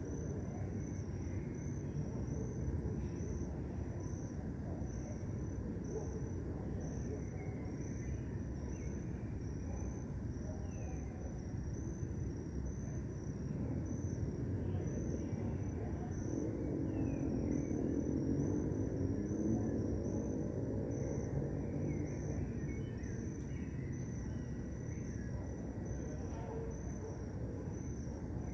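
Crickets chirping at dusk: a steady run of evenly spaced high chirps over a constant low city rumble. A lower rumble swells and fades in the middle. A few faint bird chirps come through.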